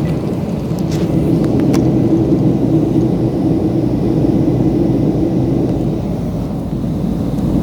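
Steady low rumble of aircraft engines and airflow heard from inside the cabin in flight, with a few faint clicks in the first two seconds.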